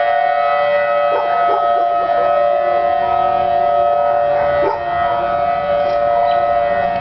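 Outdoor tornado warning siren sounding loud and steady, holding a constant pitch.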